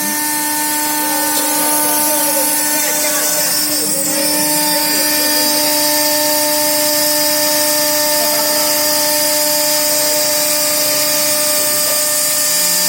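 BW2040 stone CNC router running: a steady machine whine made of several held tones over a constant hiss.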